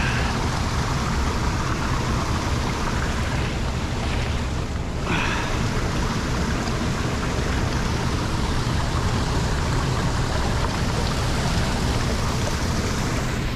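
Steady rush of water flowing into a lake drain partly blocked with storm debris, briefly muffled about four to five seconds in.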